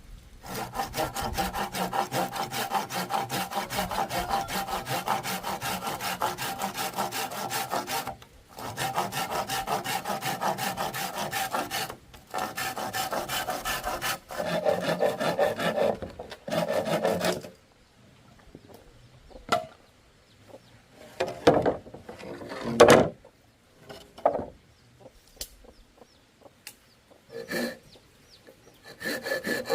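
Hand saw cutting through bamboo in steady rasping runs, pausing briefly twice. It is followed by a series of separate wooden knocks and taps, the loudest about two-thirds of the way through.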